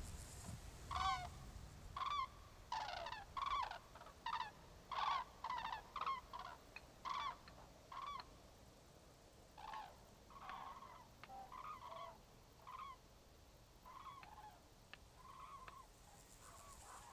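Common cranes calling: a series of short trumpeting calls, about eleven loud ones in quick succession over the first eight seconds, then fainter, more scattered calls.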